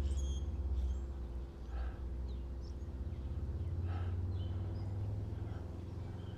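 Birds chirping in short, scattered calls over a steady low rumble and hum.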